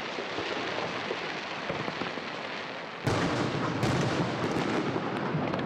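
Aerial fireworks going off in a dense, continuous crackle of bursting shells. About three seconds in there is a sudden louder volley of bangs.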